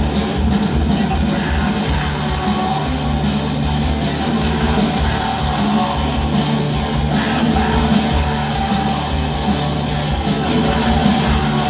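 Rock band playing live, loud and dense, with distorted guitars, bass and drums and a cymbal crash about every three seconds.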